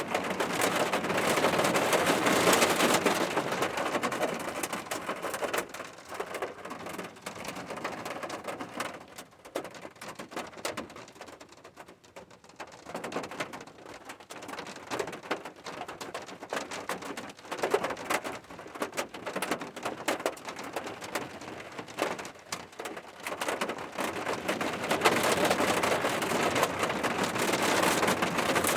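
Rain falling, a dense patter of drops. It is heavier at the start, eases off through the middle, and builds again near the end.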